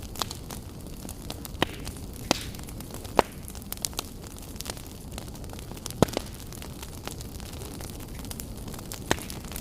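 Wood fire burning in a fireplace: a steady low rush with irregular sharp crackles and pops, the loudest a little after three seconds in and again at about six seconds.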